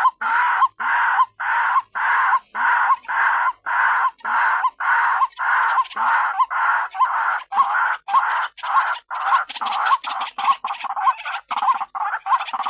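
White-breasted waterhen (ruak-ruak) calls played as a trapping lure: a call note repeated steadily about twice a second, turning quicker and more ragged after about nine seconds.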